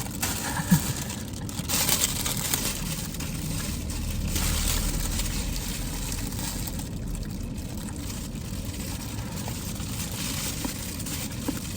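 Steady rushing background noise, with a low rumble that swells about four to five seconds in.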